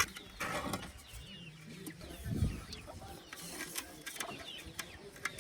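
Birds chirping repeatedly in short falling calls, with a sharp click at the start and a dull thump about two and a half seconds in.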